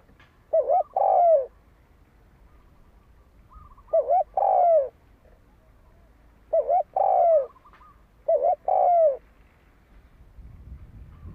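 Spotted dove cooing: four phrases a couple of seconds apart, each a short coo followed by a longer coo that falls in pitch. This is the male's territorial call used to provoke rival birds.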